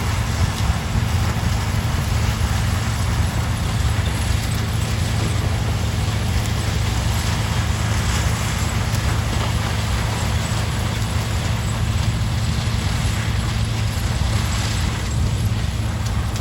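Diesel engine of a sugarcane harvester running steadily at constant speed, a deep even hum under a rushing noise.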